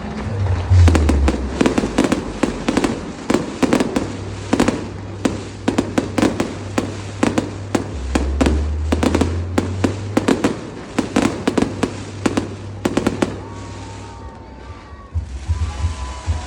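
Fireworks going off: rapid crackling and popping bursts, several a second, thinning out about fourteen seconds in. Thin whistling tones come in near the end.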